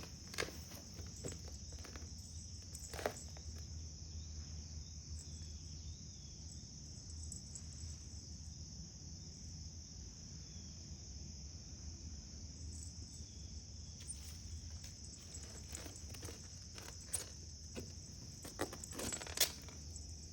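Steady high-pitched insect chorus with a low hum underneath, and a few scattered clicks and taps, most of them near the end.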